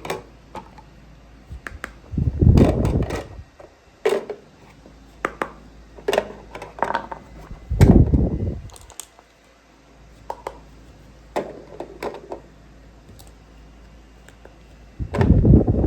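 Plastic toy pieces being handled: scattered light clicks and taps, with three heavier bumps a few seconds in, near the middle and at the end.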